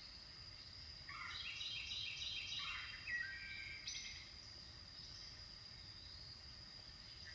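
Wild birds singing: a quick series of repeated chirps starting about a second in and lasting around three seconds, with a lone note near the middle, over a steady faint high-pitched hum.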